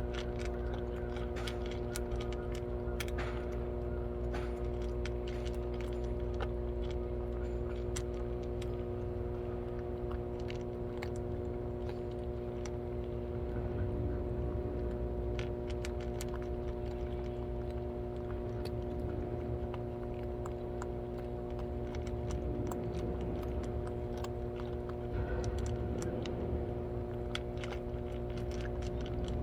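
Cats chewing and crunching food, heard as scattered small clicks over a steady low machine hum.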